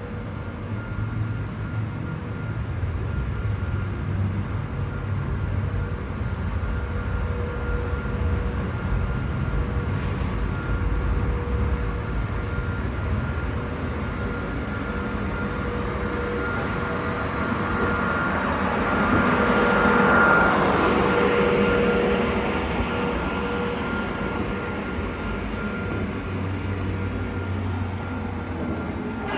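Hakone Tozan Railway Moni 1 electric freight car moving slowly through the depot yard: a steady low rumble with a faint, steady whine, growing louder about two-thirds of the way through as it comes close, then easing off.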